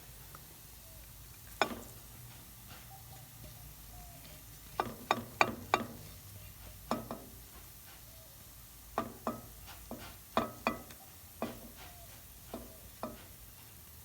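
Metal spoons clinking and tapping against a cooking pot in short, sharp knocks, some in quick runs of three or four, as spices are added to onions frying in oil, with a faint sizzle underneath.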